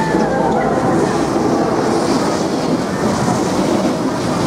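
JR Shikoku 1500 series railcar going through a train-washing machine: a steady rushing noise of the washer's brushes and water spray on the car body, with the railcar's running noise underneath.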